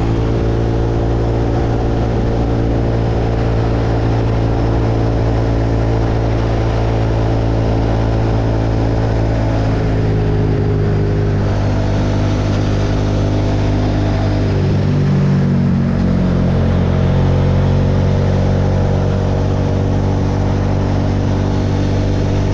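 Suzuki SV650X's V-twin engine running steadily at cruising speed while riding, its note dipping and then picking up again about two-thirds of the way through.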